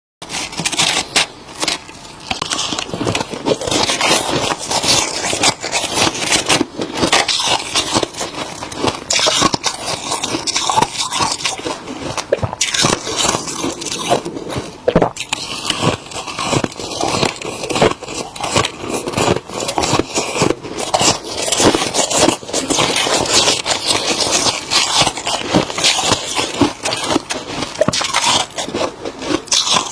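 Freezer frost being bitten and chewed close to the microphone: a steady run of crisp, crackly crunches.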